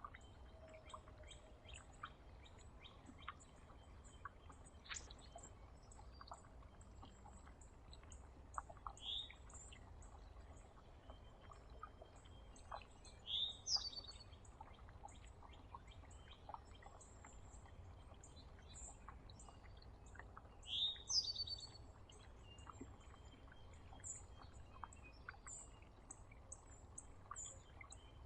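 Small birds chirping at a feeder: faint, very high chips repeat over and over, and louder downward-sliding calls come now and then, loudest in two short bouts about halfway through and about three quarters through. Scattered small clicks sound among the calls.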